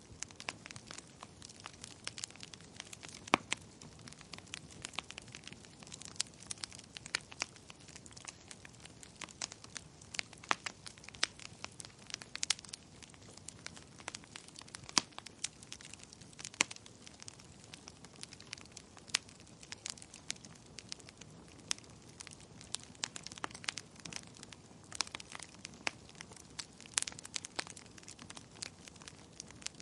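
Wood fire burning in a fireplace, crackling, with many irregular sharp pops and snaps over a low steady hiss.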